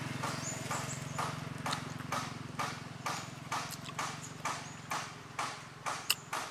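Close-miked chewing of a mouthful of raw beef liver: wet, smacking mouth clicks about twice a second.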